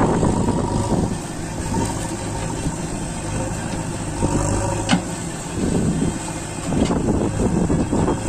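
Diesel tractor engine running steadily, with a sharp click about five seconds in.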